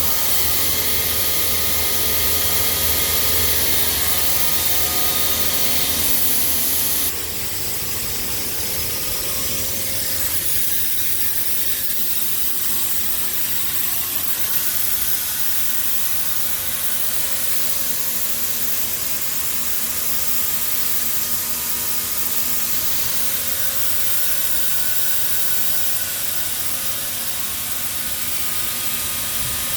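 Grain vacuum running: a steady rushing hiss with several steady whining tones from its blower. About seven seconds in the low hum drops away and the sound gets a little quieter, then runs on steadily.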